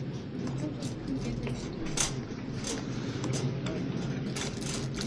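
Supermarket ambience: a steady low hum with scattered light clicks and clatter, the sharpest about two seconds in.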